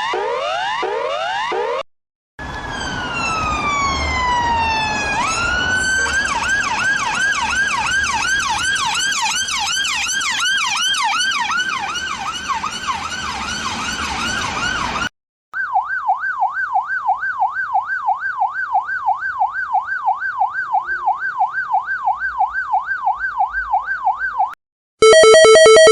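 A run of electronic siren sound effects. A quick repeating rising sweep stops about two seconds in. Then a slow falling wail jumps back up into a fast yelp, cycling about twice a second over a low rumble. After a brief gap, a rapid warbling siren swings up and down about four times a second, and music starts in the last second.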